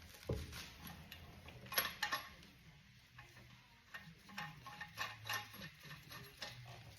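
Irregular light clicks and metallic clinks of hand tools and parts being handled, with a sharper cluster of knocks about two seconds in.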